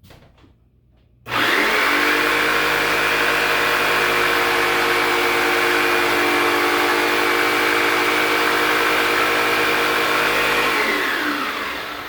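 Electric saw starting about a second in and running at a steady pitch while cutting a wooden piece to length, then switched off and winding down with a falling pitch near the end.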